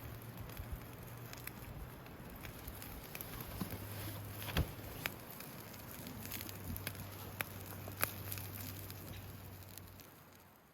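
Wood campfire crackling steadily, with scattered sharp pops, fading out near the end.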